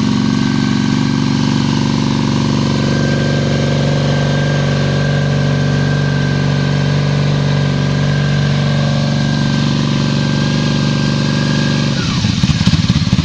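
1994 Honda Magna's V4 engine idling steadily through aftermarket Cobra exhaust pipes on the choke after a cold start. About a second before the end the steady note breaks up and turns rougher and a little louder.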